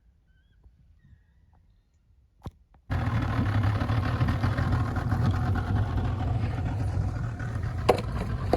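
Near silence for about three seconds, then an engine running steadily cuts in suddenly with a strong low hum, with a few sharp knocks near the end.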